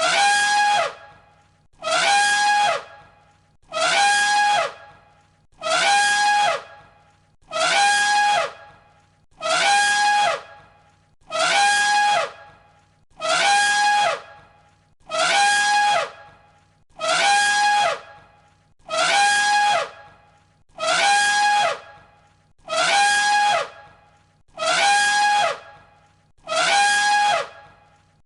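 Elephant trumpeting: one identical call, looped, repeating about every two seconds. Each call lasts about a second, a held note with a pitch that slides downward beneath it.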